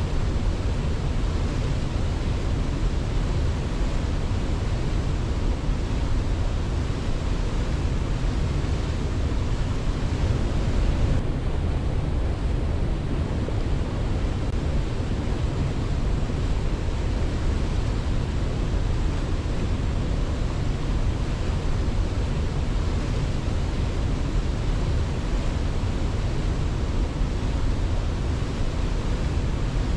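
Waterfall: a steady, unbroken rush of falling water, heaviest in the low end, with no birdsong heard.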